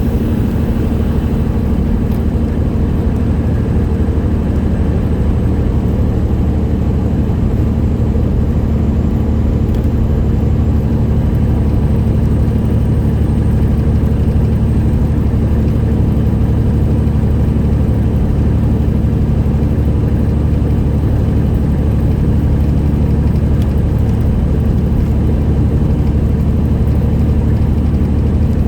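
Straight-piped Detroit Series 60 inline-six diesel of a 1999 Peterbilt 379 truck running steadily under way, a loud low drone that holds nearly the same pitch and level throughout.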